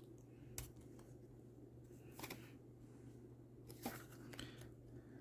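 Faint paper and card being handled at a craft table: three brief, sharp sounds about a second and a half apart, over a steady low hum.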